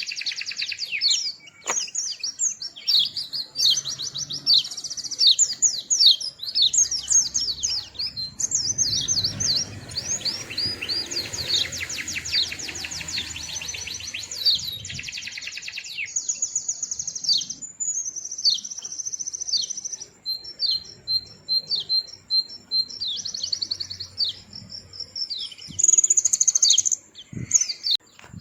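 White-eye (pleci) singing a long, fast, twittering song of high chirps and trills, with a dense rapid trill about ten to fourteen seconds in.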